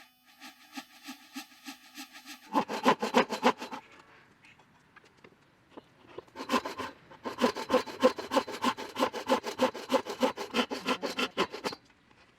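Wood being hand-sawn: rapid back-and-forth strokes, about four or five a second. A short run about two and a half seconds in is followed, after a pause, by a longer run.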